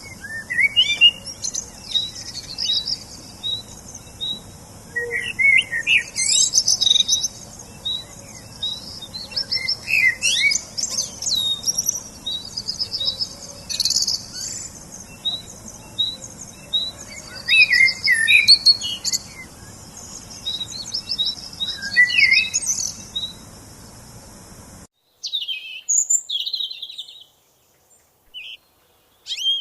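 Several songbirds singing and chirping, with one short high note repeated about twice a second under quick trills and warbles from other birds. About 25 seconds in the background hiss cuts off abruptly and the birdsong carries on over near-silent background.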